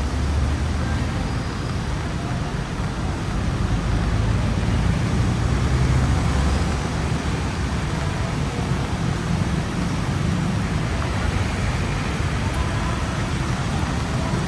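Busy road traffic: vehicles passing close by with a steady low engine rumble that swells twice as heavier vehicles go past.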